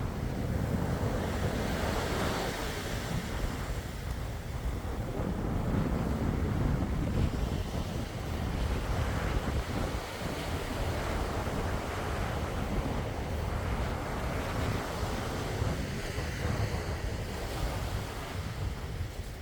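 Sea waves washing ashore in slow, repeated swells, with wind rumbling on the microphone.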